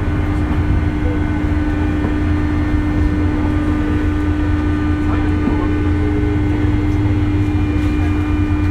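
JR West 201 series electric train running: a steady low rumble with a steady electrical hum that sets in at the start, along with several fainter high tones.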